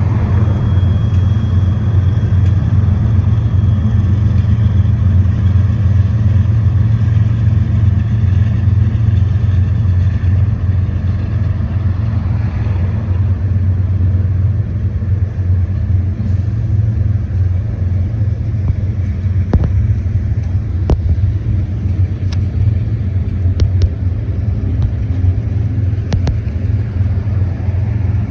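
Train rolling past with a steady, loud low rumble, and a few sharp clicks in the last third.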